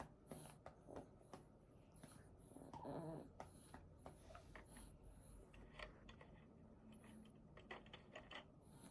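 Faint, scattered clicks of quiet computer keyboard typing, bunched more thickly in the second half. About three seconds in there is a brief, soft high-pitched whine.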